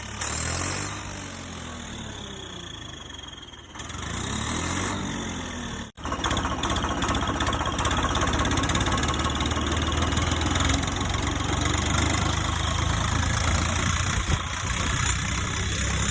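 Tractor engine running, changing pitch for the first few seconds, then cut off abruptly about six seconds in and replaced by steady running.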